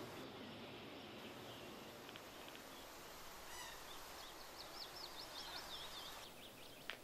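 Faint outdoor ambience of steady background noise, with a bird singing a wavering, repeated high call from about halfway through, and a short sharp tick near the end.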